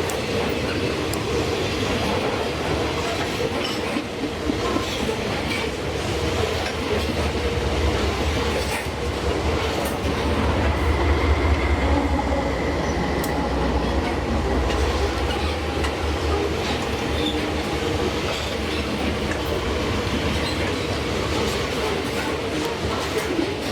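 Freight train rolling past: a steady rumble of wagons with wheel clicks over the rail joints, heaviest about halfway through, when a faint wheel squeal comes in briefly.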